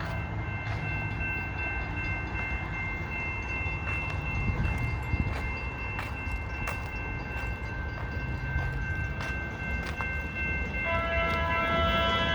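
A train running through a level crossing: a steady low rumble with scattered sharp clicks and steady high ringing tones. Near the end the train's horn sounds.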